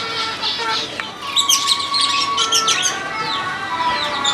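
Several birds chirping and calling at once, with many quick overlapping chirps and a few longer held notes underneath.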